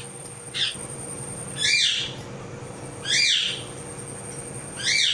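A bird calling repeatedly: four short calls, the first faint and the next three louder, roughly a second and a half apart.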